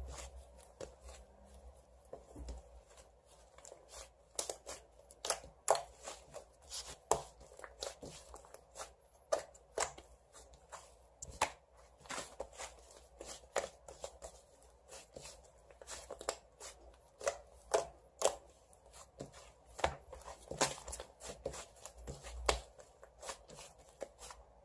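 Slime being played with by hand, giving irregular crisp clicks and pops, a few each second.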